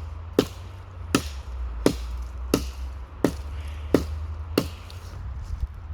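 Small axe chopping dry deadwood at a knot: a steady series of about seven sharp blows, roughly one every 0.7 seconds, over a low rumble.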